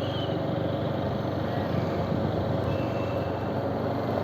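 Steady vehicle engine and road noise, an even low rumble that holds at one level without rising or falling.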